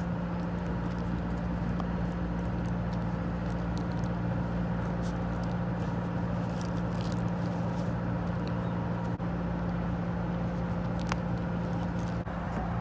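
A cruising sailboat's engine running steadily under way, a constant even hum with no change in speed.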